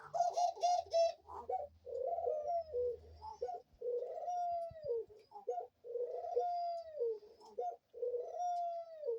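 Pet dove cooing. A quick run of short notes in the first second is followed by four long rolling coos about two seconds apart, each falling off in pitch at the end.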